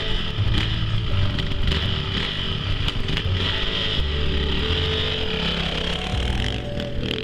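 Motocross bike engines running and revving, mixed with background music.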